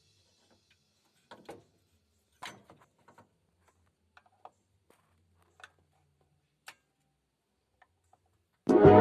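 A few faint, scattered clicks and taps at irregular intervals, then music starts loudly near the end.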